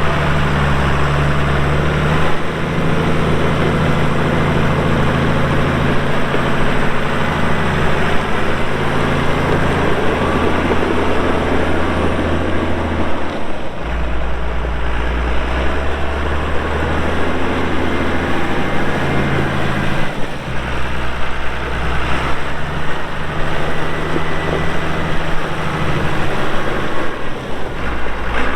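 2002 Challenger MT535 tractor's diesel engine running, its low note shifting in pitch and load several times, about a second in, near the middle, about two-thirds through and near the end.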